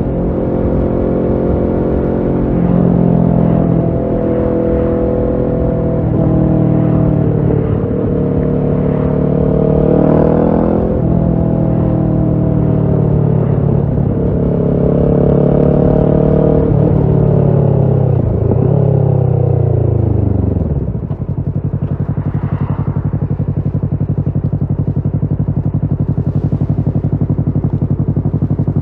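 Kawasaki Ninja 650's parallel-twin engine through a Shark SRC-4 full exhaust system, pulling through the gears with its pitch climbing and dropping at each shift. About 18 seconds in it falls away as the bike slows, and from about 21 seconds it settles to a steady idle.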